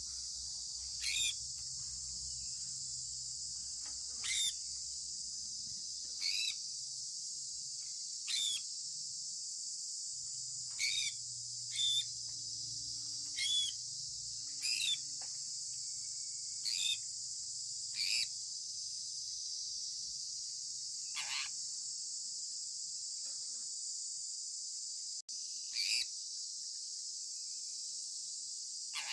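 Sun conure parrot giving short chirps that fall in pitch, about a dozen of them, roughly every one to two seconds with one longer pause. They sound over a steady high hiss of a cricket or insect chorus.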